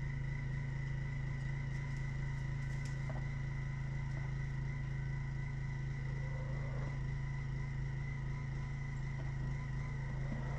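A steady, low machine hum, even throughout, with a few faint brief sounds over it.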